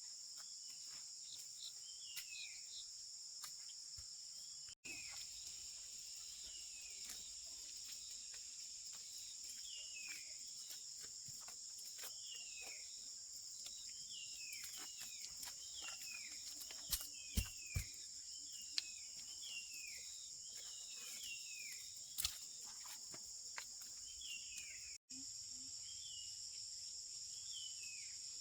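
Steady high-pitched insect chorus of crickets, with many short calls falling in pitch repeating throughout. A few sharp clicks or knocks come around the middle.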